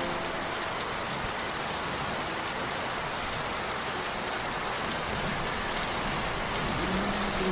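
Steady rain falling, an even hiss with scattered individual drops ticking through it. Soft background music comes back in near the end.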